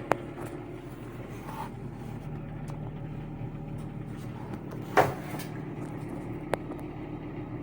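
Steady low engine-like hum, with a few sharp clicks and one loud knock about five seconds in.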